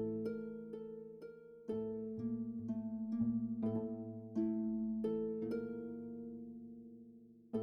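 Background music only: a gentle melody of plucked-string notes, each ringing and fading, with one note left to die away through the second half.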